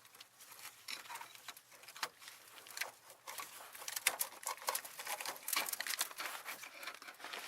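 Irregular small clicks, taps and rustling of hands working at the fuel lines.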